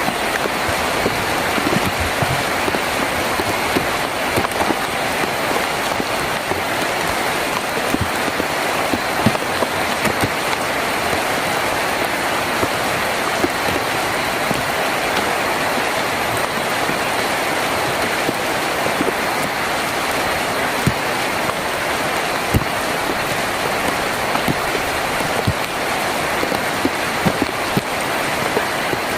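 Heavy rain drumming steadily on a tin roof, a dense, even patter with scattered louder drops.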